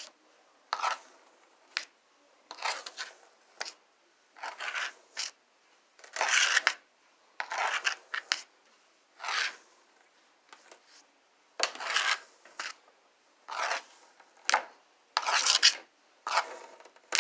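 Doll brush drawn again and again through a toy horse's fabric-softened hair: a series of short brushing swishes, roughly one a second, with brief pauses between strokes.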